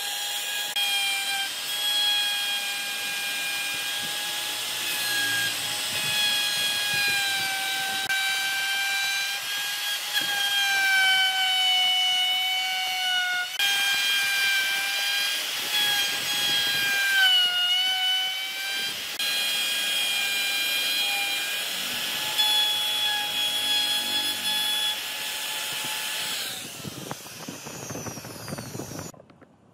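Hand-held electric power tool working wood: its motor runs with a steady high whine over a rasping haze, the pitch sagging briefly now and then as it is pressed into the wood, most clearly about 17 seconds in. The motor stops about 27 seconds in.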